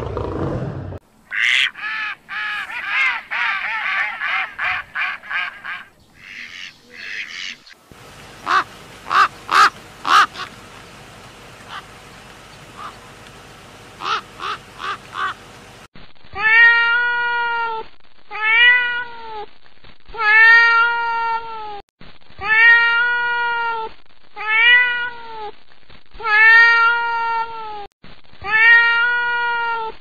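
Domestic cat meowing over and over in the second half, about eight meows, each roughly a second long. Before it comes a run of other animal calls: a roar dying away, quick pitched calls, then scattered sharp clicks.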